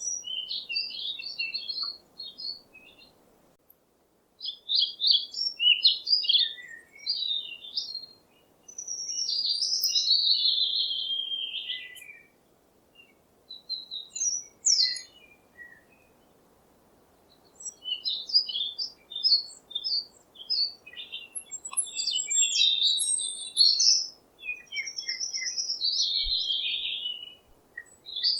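Songbird chirping and singing in phrases of quick high notes and short warbles, with brief pauses between phrases.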